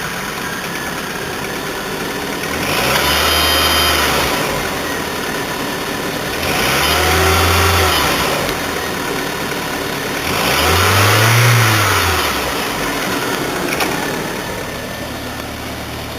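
2001 Volkswagen Cabrio's four-cylinder engine idling and revved three times, each rev climbing and falling back over about two seconds before it settles to idle again.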